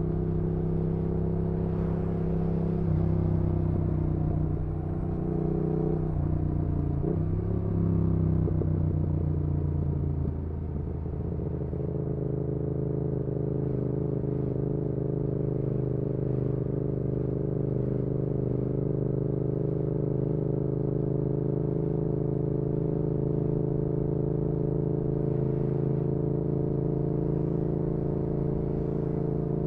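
Yamaha XSR700's parallel-twin engine through its aftermarket IXRACE MKII exhaust, heard from the bike while riding. The engine note changes pitch over the first ten seconds or so, then settles into a steady cruise.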